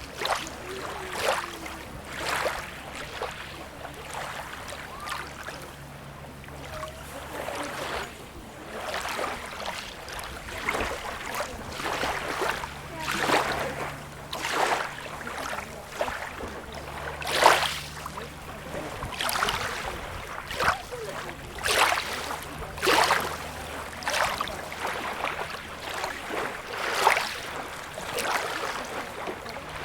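Small sea waves lapping and splashing on a beach. Short splashes come about every one to two seconds over a steady wash, with a faint low rumble underneath.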